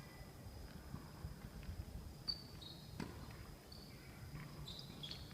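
Faint outdoor ambience: a steady thin high-pitched insect trill, a few short high chirps, and one sharp knock about three seconds in, over a low background rumble.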